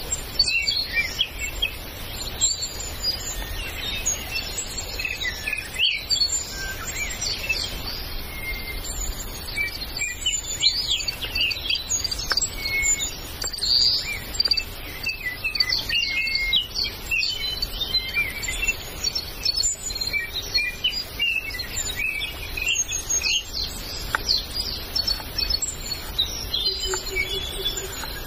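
Forest birds chirping and calling: many short, overlapping whistled notes from several birds at once, over a steady low background noise.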